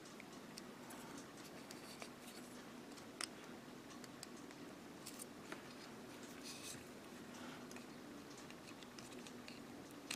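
Faint scattered clicks and light taps of small tools and parts being moved about on a work table, over a low steady hum.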